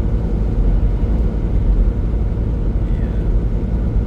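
Semi-truck running at highway speed, heard from inside the cab: a steady, even low rumble of engine and road noise.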